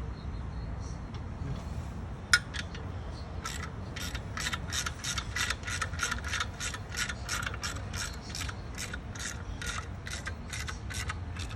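Hand ratchet wrench clicking: one sharp click, then an even run of about three or four clicks a second for several seconds.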